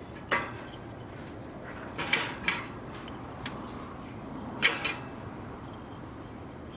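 Light metal objects clinking and clattering: several short, sharp clinks, bunched about two seconds in and again about four and a half seconds in, over a steady background hiss.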